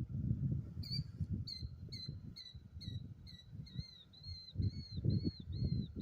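A songbird calling a rapid series of repeated, clear chirps, a little over two a second, starting about a second in, over an uneven low rumble.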